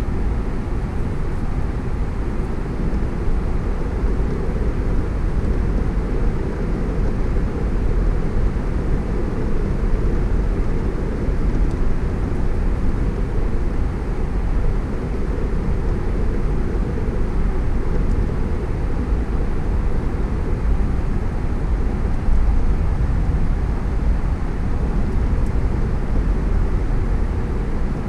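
Steady low rumble of a car driving: tyre and road noise mixed with wind, even throughout with no distinct events.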